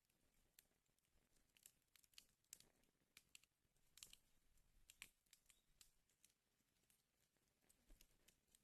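Wood fire in a fireplace crackling faintly: irregular small pops and snaps over a soft hiss.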